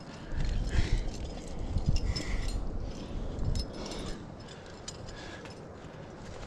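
Climbing gear and a climber's movement on rock: irregular clinks, knocks and scraping with rustling over a low gusty rumble, busiest in the first four seconds and quieter after.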